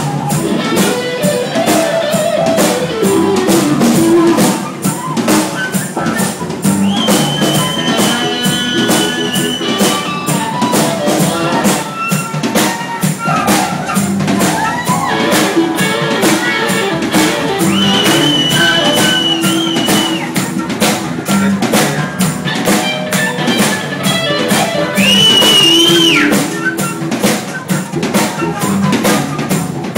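Live rock band playing, with a drum kit keeping a steady beat and guitar, and a lead instrument holding long high notes three times, the last one bending up and down.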